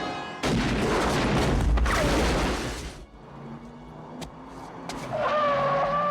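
Action-film sound effects: a loud burst of noise like heavy gunfire lasting about two and a half seconds, then a quieter stretch with low held tones. A steady held tone comes in about five seconds in.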